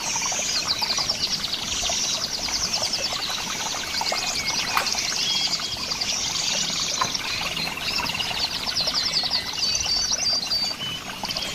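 Cricket chirping in repeated pulsed trills, each about a second long, with short gaps between them, over a busy chorus of other insects and birds.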